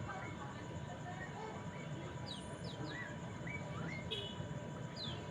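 Poksay mandarin calling in short, scattered chirps: quick downward whistled notes and short rising notes, a few each second, over a steady background hiss and hum.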